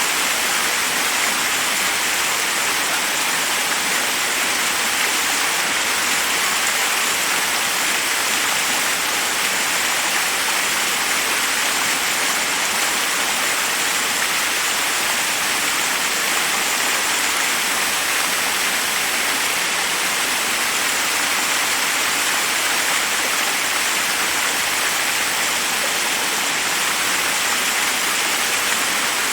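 Forest waterfall: a steady, even rush of water falling over rocks, bright and hissing rather than deep, with no change in level.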